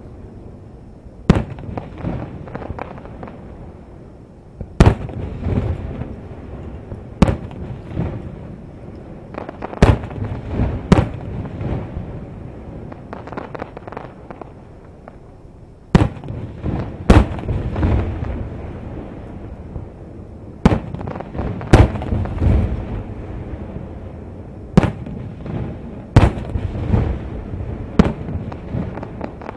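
Fireworks display: about a dozen sharp aerial shell bursts, irregularly spaced one to four seconds apart, each followed by a rolling echo.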